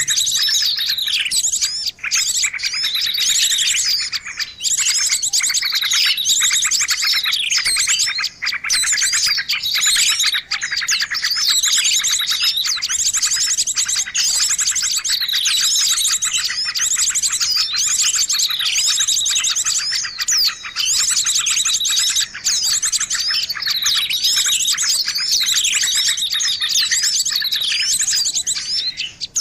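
Dense chorus of small songbirds, many overlapping high chirps, twitters and fast trills going on without a pause: a mixed bird-lure (pikat) call track.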